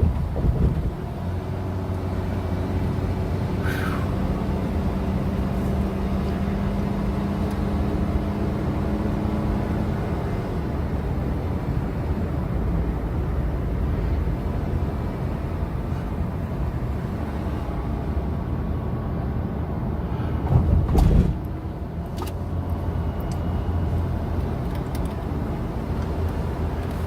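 A car driving, heard from inside: a steady engine and road hum, with a short louder rush of noise about two-thirds of the way through.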